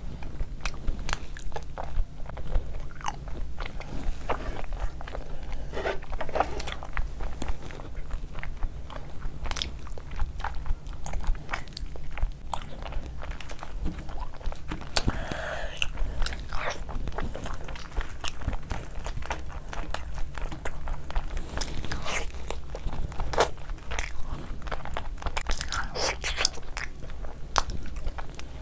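Close-miked eating with the hands: a person biting and chewing spicy chicken curry with fufu, with many small wet crunches and clicks coming irregularly throughout.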